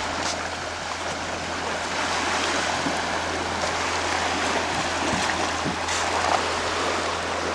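Seawater rushing and splashing, with a steady low hum underneath.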